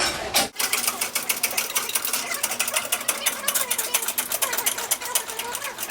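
Rapid, steady mechanical clicking, many clicks a second, starting about half a second in, with faint voices behind it.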